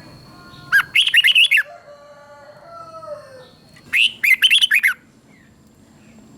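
Red-whiskered bulbul singing: two loud, quick warbled phrases of several rising and falling notes each, about three seconds apart, with fainter, lower whistled notes between them.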